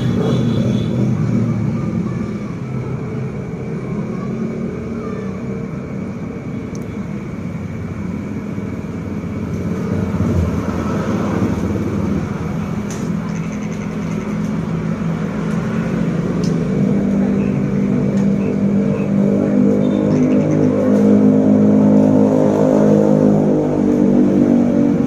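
Motor vehicle engine running on the road with steady road noise, its pitch rising and falling as it speeds up through the second half.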